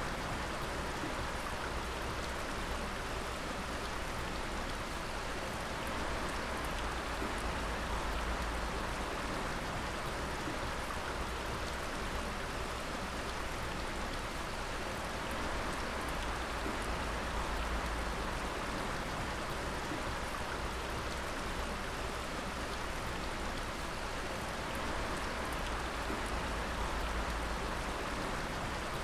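Water dripping and splashing continuously, many drops pattering at once in a dense, even shower. A low steady rumble runs underneath.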